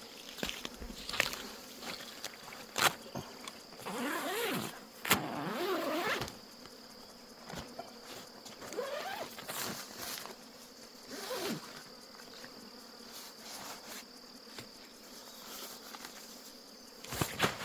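Steady high chirring of insects, with intermittent clicks, knocks and rustling as camping gear and a small inflator are handled.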